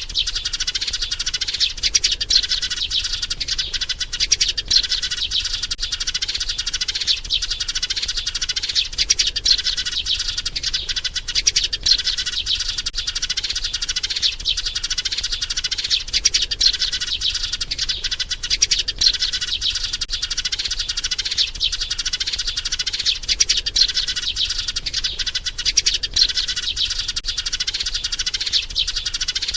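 A sparrow chirping rapidly and without pause, a dense stream of quick, high chirps: the call of a maturing sparrow seeking a mate.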